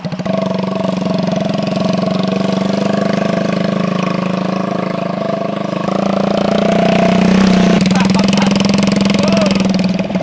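Single-cylinder engine of a custom Honda Megapro motorcycle running at a steady pitch, a little louder for a couple of seconds past the middle.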